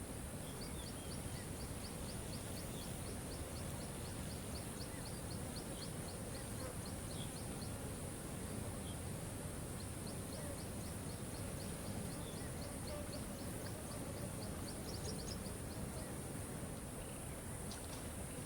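Waterfall water rushing steadily. Over it comes a rapid, high chirping call of about four notes a second, in two runs of around five seconds each, along with a steady high hiss.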